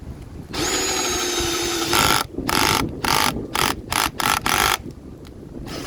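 Bauer 20-volt cordless drill motor whining steadily for about a second and a half, its pitch sagging slightly. It is then triggered on and off in about seven quick short bursts as the bit struggles to bore. The drill is short of power because its battery is down to one bar.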